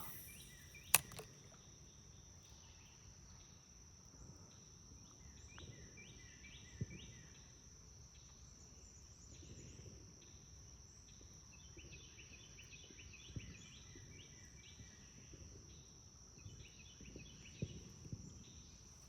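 Insects chirping outdoors over a steady high-pitched drone, with repeated short chirp phrases. A single sharp click about a second in, and a few faint ticks later on.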